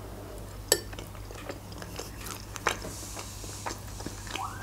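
Close-up chewing of pan-fried pelmeni (fried dumplings), with soft mouth sounds and a few sharp crunchy clicks scattered through it.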